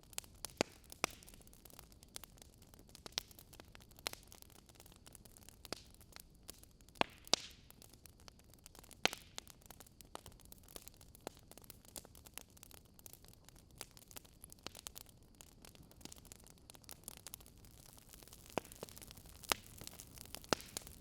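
Burning logs in a wood fire crackling: irregular sharp pops and snaps over a soft steady hiss, with a few louder snaps a third of the way in and again near the end.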